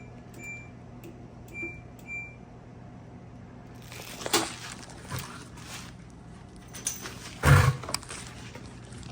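Control panel of a Kenmore Elite (LG-built) washer beeping four times as its buttons are pressed; the washer now powers on with its new noise filter board. Several clattering knocks follow, then a heavy clunk about seven and a half seconds in.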